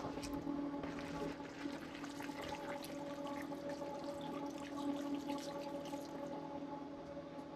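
Water running and splashing, with many small crackles, over a steady hum that fades off about six and a half seconds in.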